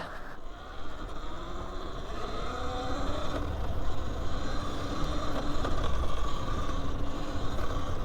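Electric dirt bike riding on a rough trail: a thin electric motor whine over tyre and wind rumble, getting louder as the bike picks up speed.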